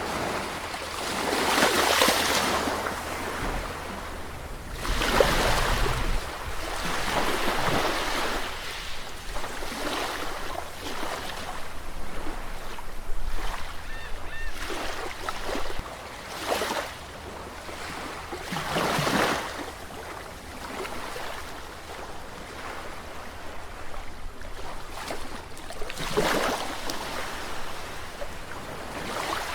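Sea waves breaking, the surf swelling and falling away every few seconds, with the biggest breaks about 2, 5 and 19 seconds in, over a steady low rumble.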